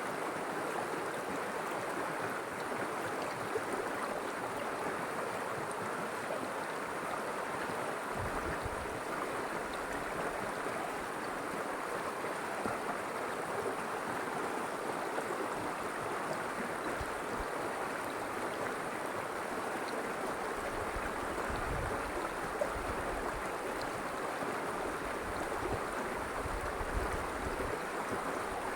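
River water flowing steadily, an even, unbroken wash of sound. Irregular low rumbles come in about a third of the way in and again through much of the later part.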